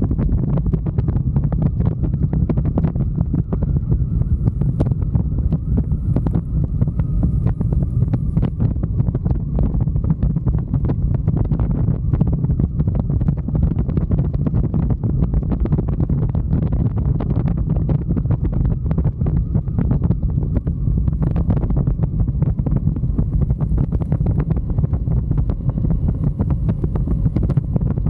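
Wind buffeting hard on the microphone of a moving motorcycle: a loud, steady low rumble with constant crackling, over the bike's running.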